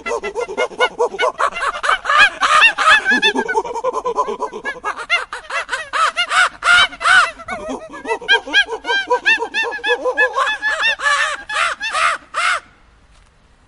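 Birds calling: many short, rising-and-falling calls overlapping in quick succession, stopping suddenly near the end.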